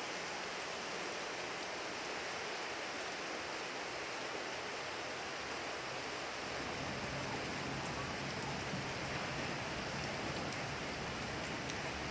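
Steady rain falling: an even hiss with scattered ticks of single drops. A little over halfway through it grows slightly louder and fuller in the low end.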